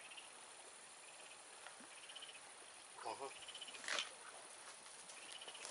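Faint, quiet outdoor ambience with a small animal chirping in short calls about once a second. A brief lower call comes about three seconds in and a sharp click about four seconds in.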